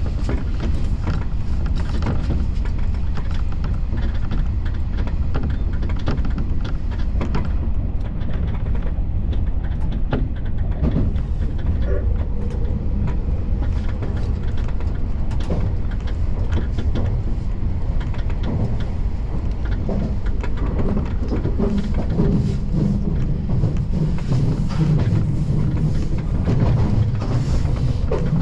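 Keio Inokashira Line electric commuter train running between stations: a steady rumble of wheels on rail with many short clicks from the track. A low motor tone grows stronger in the last few seconds.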